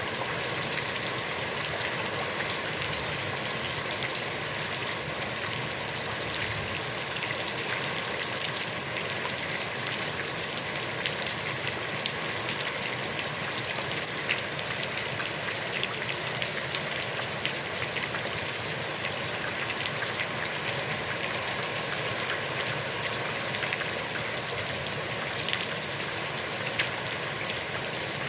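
Heavy rain falling steadily onto a pond, a dense even hiss flecked with the ticks of individual drops.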